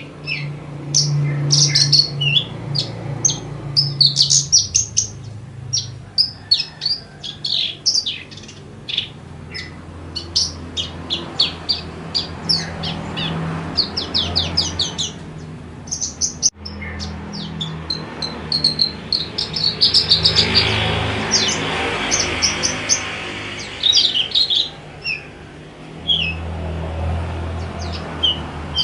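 Javan bush lark (branjangan) singing a fast, continuous song of high chirps and short trills with only tiny gaps, broken once by a brief cut about halfway through. A low steady hum sits underneath.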